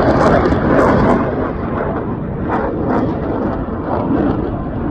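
Loud roar of jet aircraft passing close by at an airshow, crackling at first and easing a little towards the end.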